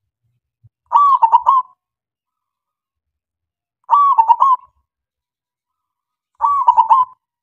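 Male zebra dove (perkutut) cooing: three short phrases, each a quick run of stuttering coo notes lasting under a second, about three seconds apart.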